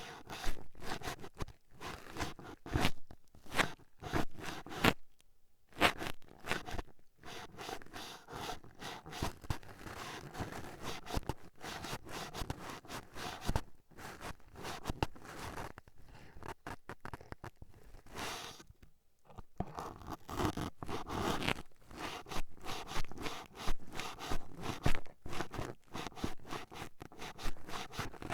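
Toothpicks jabbing and scratching rapidly at the ear, close to the microphone: a dense, irregular crackle of little pokes and scrapes, with brief pauses about five and nineteen seconds in.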